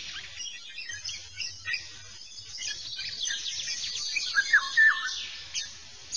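Several birds chirping and twittering, with a few louder whistled notes sweeping up and down about four to five seconds in.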